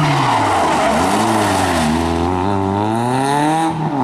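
Rally car engine accelerating hard, its pitch climbing steadily and then dropping sharply on an upshift near the end before rising again. A hissing tyre or skid noise runs under the engine for the first couple of seconds.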